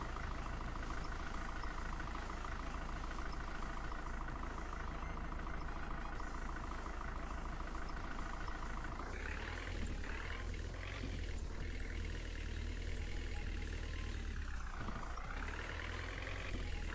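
Tractor engine running steadily, then revving up and down several times from about halfway through, with one deep drop in pitch and a climb back near the end.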